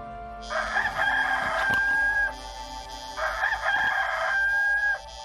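Rooster crowing twice, each crow ending in a long held note. This is a cartoon wake-up sound effect over faint background music.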